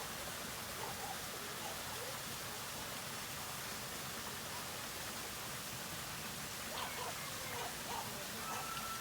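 Steady, even hiss of outdoor background noise with faint, scattered bird chirps and short whistles now and then, a few more of them near the end.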